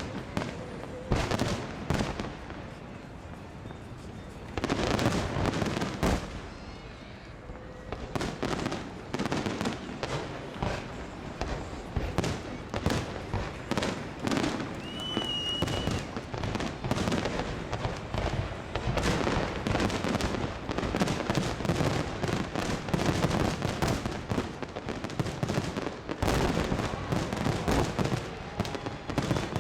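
Aerial fireworks display: a few separate loud bangs at first, then a nearly continuous barrage of bangs and crackling from about eight seconds in.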